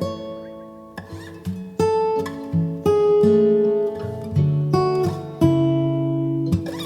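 Background music: acoustic guitar playing plucked notes and strummed chords, each ringing out before the next.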